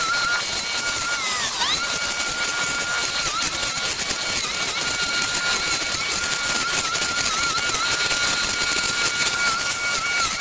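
A machine running with a steady high whine over a hiss. Its pitch sags sharply about one and a half seconds in and dips briefly a few more times.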